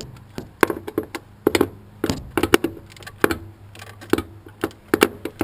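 Irregular metallic clicks and clinks of a hand wrench and socket working a nut on the truck, about a dozen sharp strikes over a few seconds.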